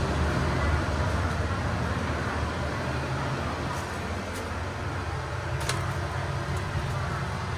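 Steady low rumble of a stationary diesel train idling, growing a little quieter moving from the door into the carriage, with a few light clicks and knocks.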